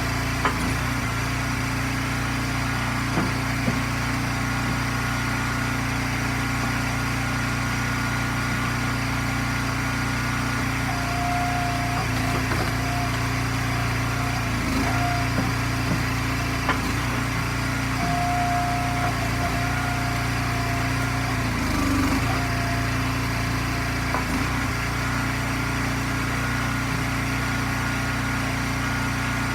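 Gas engine of an Eastonmade hydraulic wood splitter running steadily, with a few sharp knocks and a couple of short higher whines over it.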